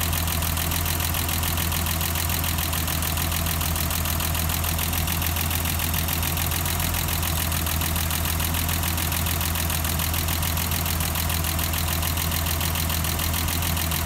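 BMW M20B25 2.5-litre straight-six engine idling steadily.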